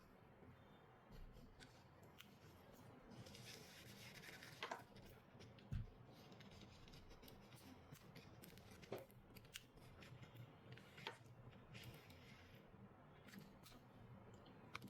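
Faint clicks and scrapes of small hand tools working on a phone, with one low thump about six seconds in.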